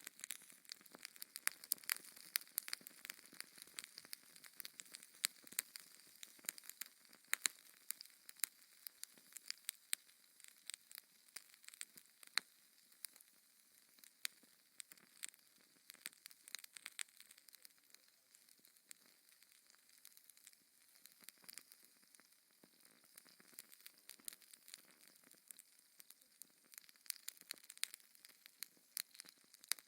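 Fire in a fireplace crackling: many sharp pops of varied loudness, close together, over a soft hiss.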